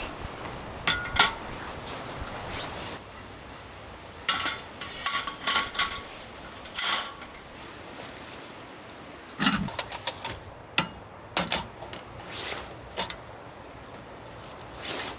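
Irregular clinks and knocks of hard, partly metal objects being handled and set down, some with a brief ringing tone.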